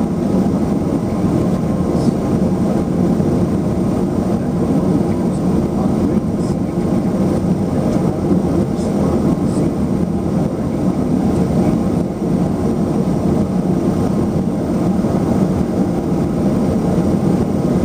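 Steady cabin noise of a LET-410's twin turboprop engines and propellers, a constant low drone with no change in pitch or level.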